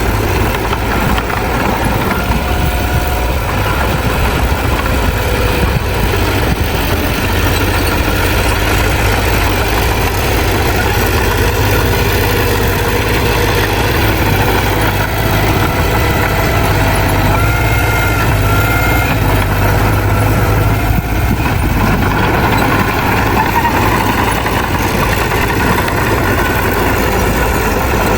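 Heavy diesel engine of a bulldozer running steadily, with a few faint high squeaks about two-thirds of the way through.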